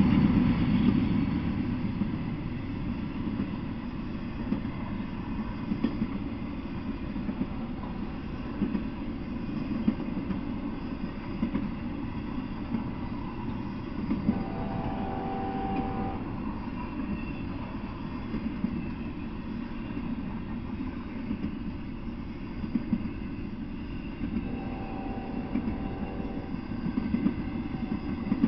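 Intermodal freight train cars rolling past: a steady rumble of steel wheels on the rails with scattered clanks. A brief whine of several steady tones comes up about halfway through and again near the end.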